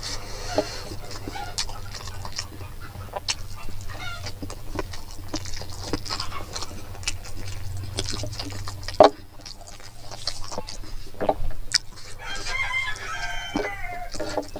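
Close-up eating sounds of a man chewing rice and pork by hand: many short wet clicks and smacks, with one sharp, loud click about nine seconds in. A chicken calls in the background near the end.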